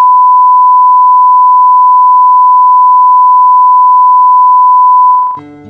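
Loud, steady, single-pitch test tone, like a broadcast line-up beep, held for about five seconds and cutting off suddenly. Acoustic guitar music starts just after it, near the end.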